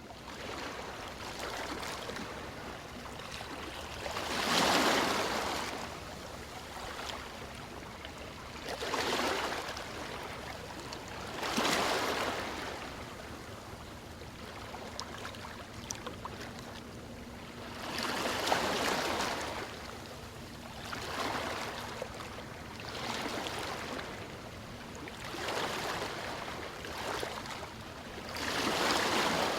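Ocean waves washing in, with a louder surge every few seconds rising and falling over a steady hiss of surf.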